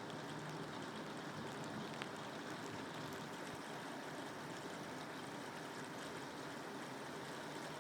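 Steady rain falling, an even hiss with a few faint drop ticks, one plainer about two seconds in.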